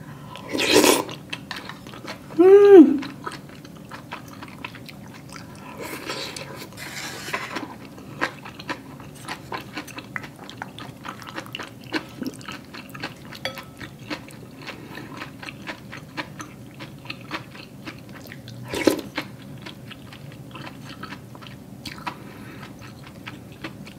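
A person chewing a mouthful of Korean rice cake soup (chewy rice cakes, tofu and dumplings) close to the microphone, with many small wet mouth clicks. There is a short hummed 'mm' about two and a half seconds in.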